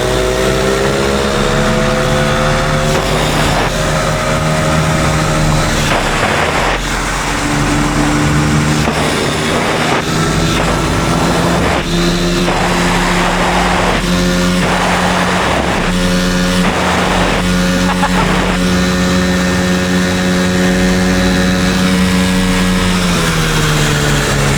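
Dirt bike running at a steady speed, its motor tone holding pitch and then dropping near the end as it slows, over rough wind and gravel noise on the microphone.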